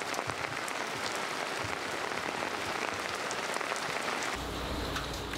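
Steady rain falling, with a few soft knocks. A low hum comes in near the end.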